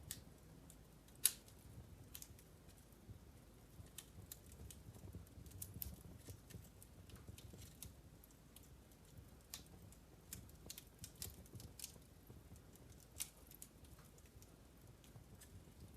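Wood fire crackling in a fireplace: scattered sharp pops and snaps from burning logs at irregular intervals, one louder pop about a second in, over a low rumble of the flames.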